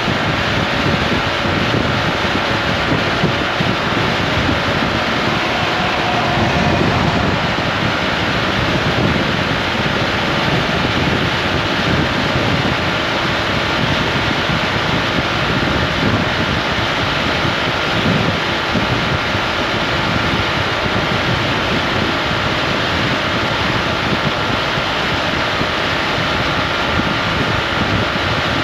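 Honda ADV 350 scooter riding along: steady wind noise buffeting the microphone over the scooter's running engine.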